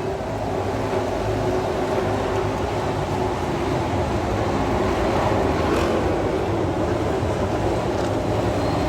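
MotoGP racing motorcycles running around the circuit, heard as a steady blended engine drone with no single bike passing close.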